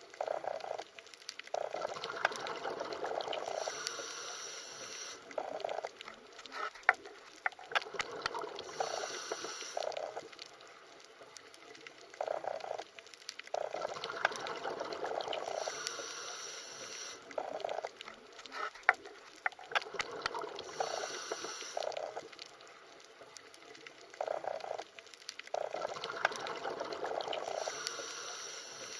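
Underwater water sounds: bursts of bubbling and gurgling that swell and fade every few seconds, with scattered sharp clicks.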